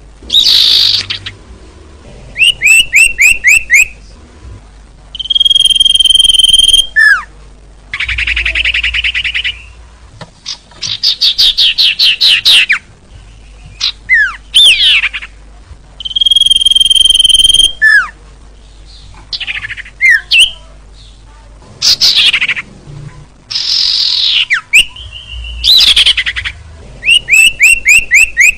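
Looped bird-lure (pikat) recording of small songbird calls: a held whistle, quick runs of falling chirps, buzzy trills and sharp down-slurred notes, the same sequence repeating about every eleven seconds.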